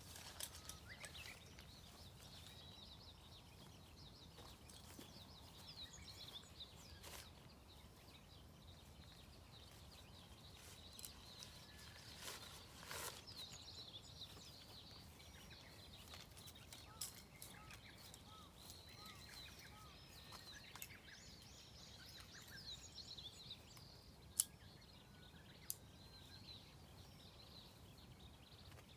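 Quiet woodland ambience with small birds chirping faintly and repeatedly, and a few sharp clicks or snaps, the loudest about 24 seconds in.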